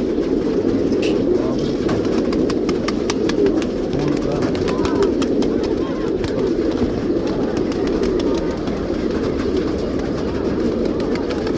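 Domestic pigeons cooing, many overlapping into a steady chorus, with frequent small clicks and taps throughout.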